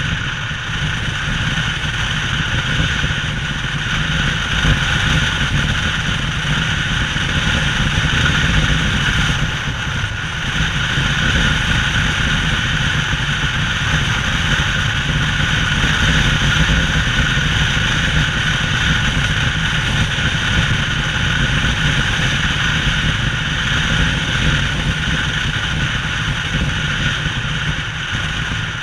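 An engine running steadily at a constant speed, with no breaks or changes in pitch.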